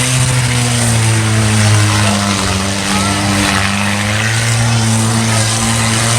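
Engine of a tough-truck competition truck running hard at fairly steady revs, a loud drone whose pitch sags briefly about three seconds in and then holds again.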